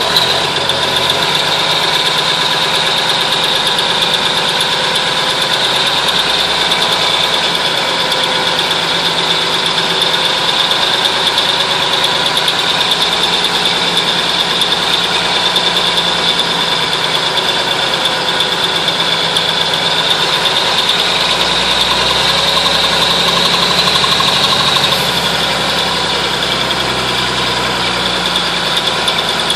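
Cummins diesel engine of an M931 5-ton military truck running steadily while warming up after a cold start, with a steady high whine over the engine sound.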